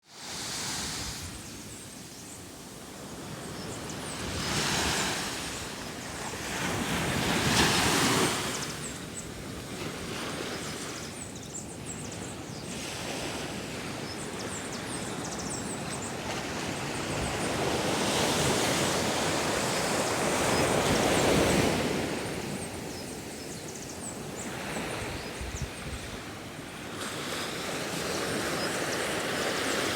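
Sea waves breaking and washing on a shore, surging and receding every few seconds, with some wind on the microphone.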